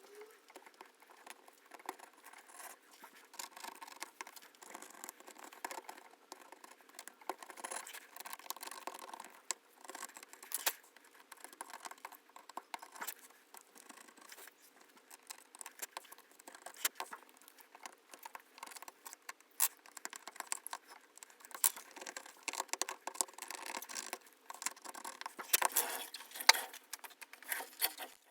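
A metal blade scraping and chipping the loosened back glass and adhesive off an iPhone's metal frame: a run of small irregular crackles, clicks and scrapes, with the sharpest snaps near the end.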